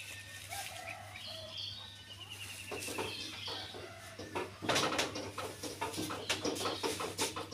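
Birds chirping and calling, with a repeated rattling trill, and clucking calls mixed with scattered short clicks and knocks from about halfway through.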